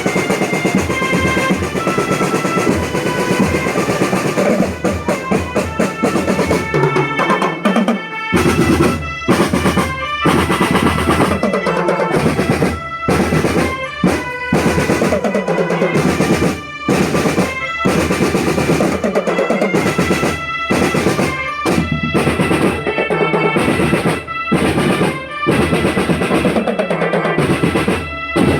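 School marching drum band playing: snare-drum rolls and bass-drum beats under a held melody. From about eight seconds in, the drumming turns into sharp, separate accented strokes.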